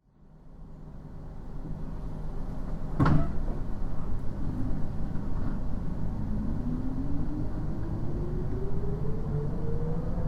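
A JR East 719 series electric train pulling away, heard from inside the carriage: a sharp clunk about three seconds in, then the traction motor whine rising steadily in pitch as the train accelerates, over the rumble of the running gear.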